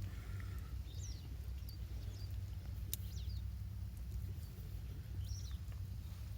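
Small birds chirping now and then in short high calls over a steady low rumble, with one sharp click about three seconds in.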